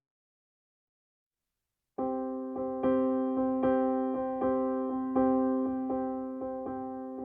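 Background music on a piano-like keyboard, starting suddenly about two seconds in after dead silence, with notes struck in an even, repeating rhythm over a held chord.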